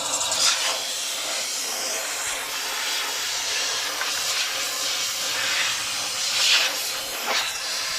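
Steam cleaner hissing steadily as it blows steam into a dishwasher's drain to clear a blockage. The hiss swells louder a few times.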